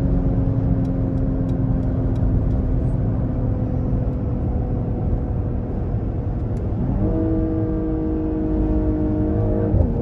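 Mercedes-AMG GLE 53's 3.0-litre inline six-cylinder engine and road noise heard from inside the cabin while driving, the engine note slowly falling. About seven seconds in the engine note steps up higher and holds for about three seconds, then drops back at the end.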